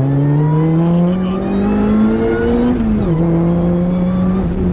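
Supercharged Saab 2.2-litre four-cylinder engine in a Vauxhall VX220 accelerating hard, rising in pitch through a gear. About three seconds in, the pitch drops sharply at an upshift. It then holds steady and eases down slightly near the end.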